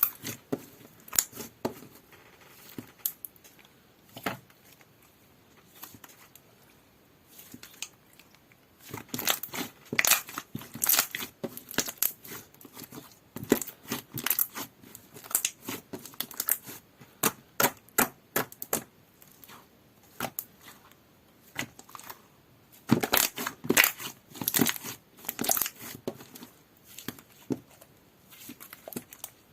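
Papaya slushie slime being squeezed and pressed by hand, giving clusters of crackling, clicking pops, with a few quieter pauses.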